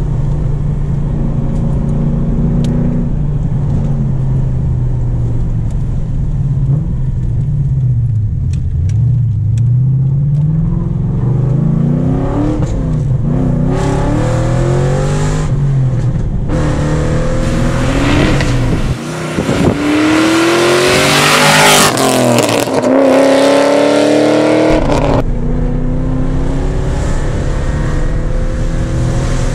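Cammed 6.0-litre LS2 V8 of a manual Holden HSV VZ Clubsport driving, heard from inside the cabin. The engine note rises and falls at moderate revs, then about two-thirds in it is revved hard, its pitch climbing in steps with brief drops at each gear change, before it settles back to a steady cruise near the end.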